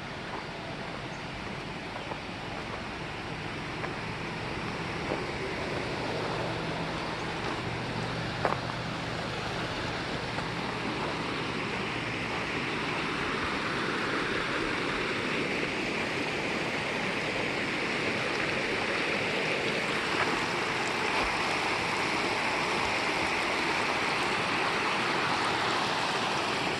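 Rushing river water, a steady wash of noise that grows gradually louder. A faint low hum is under it for several seconds in the first half.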